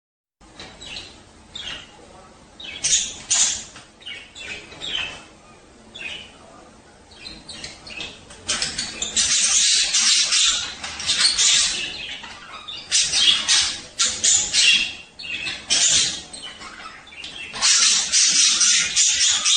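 Budgerigars chirping and warbling: the chattering song that males give in breeding condition. It starts as scattered short chirps, and from about halfway through turns into louder, dense bursts of warbling chatter.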